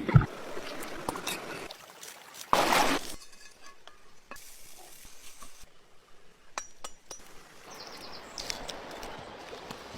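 Scattered light clinks and knocks, with a short loud rushing noise about two and a half seconds in.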